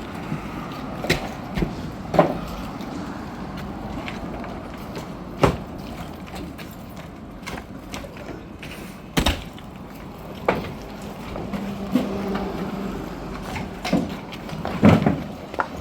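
Flat stone slabs knocking and clacking against each other as they are unloaded and stacked: about ten sharp, irregular clacks a second or more apart, the loudest near the end.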